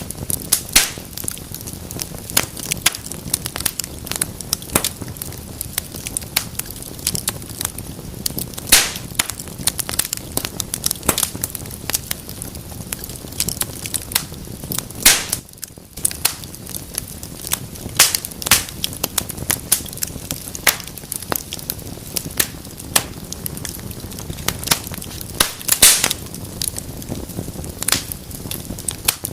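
Wood fire in a fireplace crackling: irregular sharp pops and snaps, a few of them loud, over a steady low rustle of the flames.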